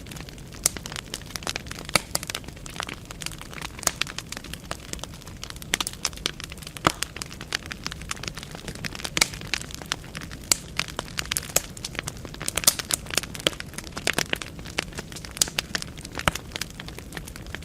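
Wood fire burning in a fireplace: the logs crackle and pop in quick, irregular snaps over a low, steady roar of flame.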